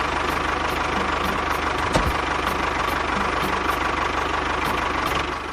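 Tractor engine running steadily, with a single sharp knock about two seconds in.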